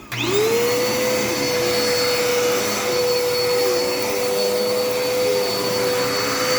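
Dirt Devil Endura Reach vacuum cleaner switching on: its motor spins up in a quick rising whine, then runs steadily with a high whine over a broad rush of air.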